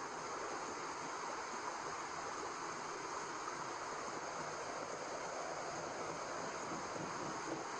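Steady white noise: an even, unchanging rushing hiss with no rhythm or breaks, heaviest in the middle range.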